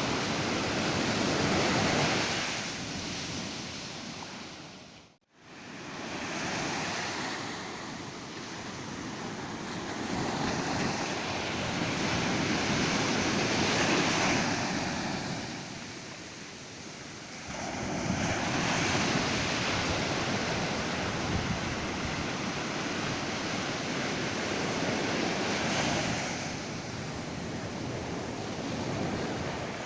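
Ocean surf breaking and washing up a beach, a steady rush that swells and ebbs every few seconds as the waves come in. The sound cuts out almost completely for a moment about five seconds in.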